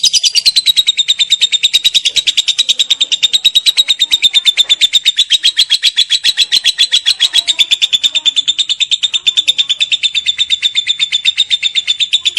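Lovebird giving a long unbroken 'ngekek' chatter: a rapid, even trill of sharp high notes, about a dozen a second, with no break.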